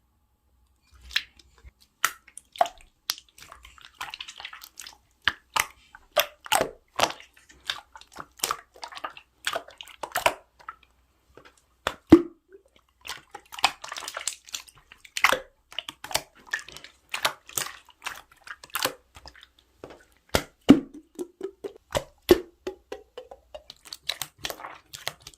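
Slime being pressed and squeezed by hand, giving an irregular run of sharp wet clicks and pops as trapped air bursts, with softer squishing in between.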